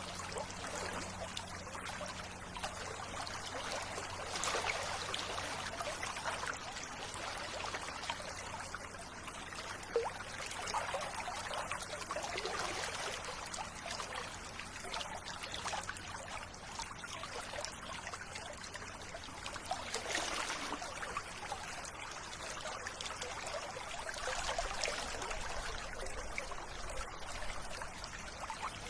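Water of a river or stream flowing and trickling steadily, swelling and easing every few seconds.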